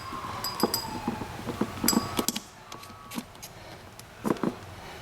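Hard plastic and small glass parts being handled: scattered clicks, knocks and light clinks, some with a brief high ring, and a short falling squeak in the first second.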